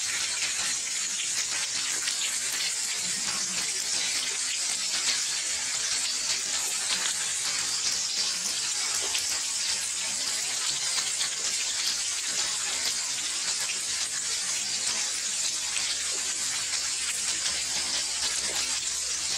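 Steady rain falling, an even, dense hiss that does not change.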